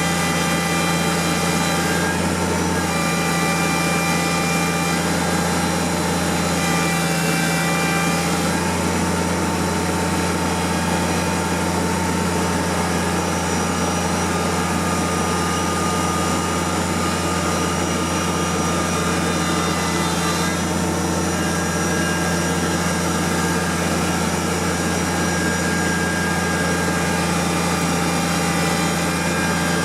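Kubota tractor engine running steadily, its pitch shifting slightly a few times as the engine speed changes.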